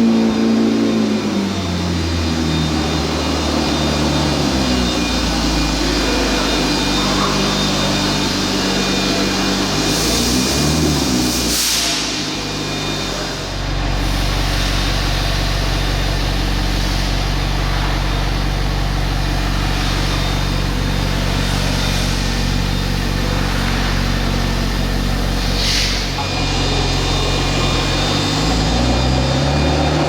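McLaren 765LT's 4-litre twin-turbocharged V8 running. It settles from a higher idle about a second in, is revved briefly near the middle, idles steadily, then changes pitch again near the end.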